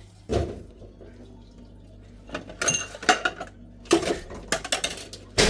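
Dishes and metal utensils being handled, clinking and clattering in separate knocks: one about a third of a second in, a run of clinks around the middle, and a sharp, loud clatter near the end.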